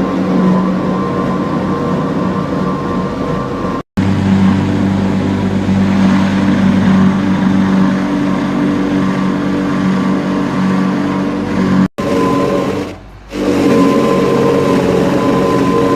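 A machine running steadily with a loud hum, cut off abruptly twice for a split second.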